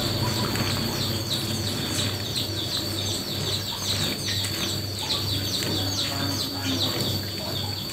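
Small birds chirping rapidly in a busy run of short, high, sliding chirps, over a low hum that throbs somewhat under twice a second.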